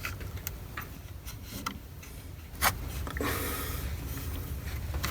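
Scattered small clicks and a short scrape as the parts of a boat's rotary steering helm and its steering cable are handled during fitting, the sharpest click about two and a half seconds in.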